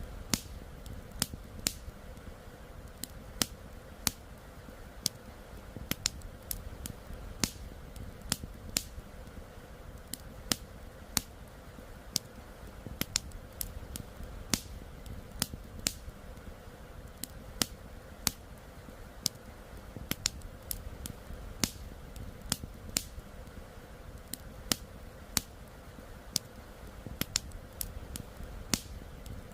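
Wood campfire crackling, with irregular sharp pops and snaps two or three times a second, over a steady low rush of flowing river water.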